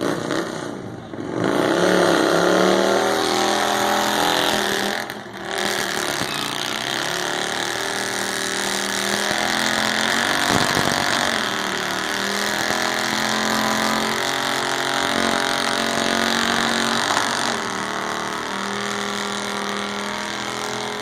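Motorcycle engine held at high revs through a burnout, with the rear tyre spinning against the pavement in a steady hiss. The engine dips briefly twice within the first six seconds, then holds high and steady.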